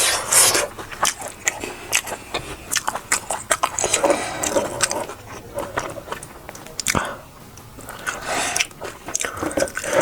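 Close-miked eating sounds: a person biting and chewing food, with many small wet clicks and smacks.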